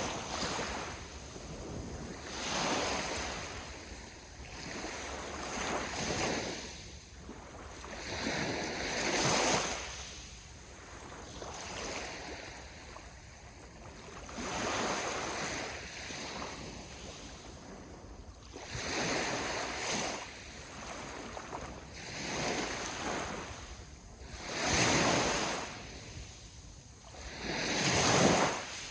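Sea waves breaking and washing up the shore, each wash swelling and fading away every few seconds.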